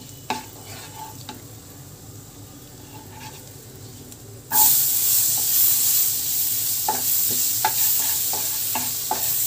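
Minced garlic frying with a faint sizzle in melted butter in a nonstick pan, with light scrapes of a wooden spatula. About halfway through, a much louder sizzle breaks out suddenly as diced green capsicum goes into the hot butter, and the spatula keeps stirring with a few clicks against the pan.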